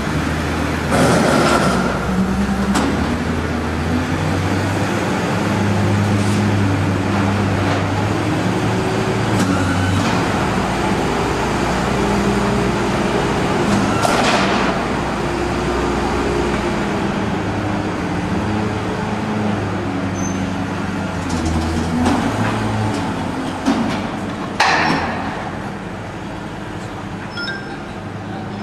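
Ford F-450 tow truck's V10 engine running, its pitch stepping up and down as the truck is moved, with a few short, loud hissing bursts.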